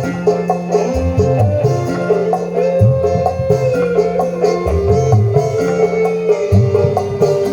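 Live dangdut koplo band music played loud through a large outdoor sound system: a rhythm of drum strokes over a repeating bass line, with a sustained melodic lead that slides in pitch.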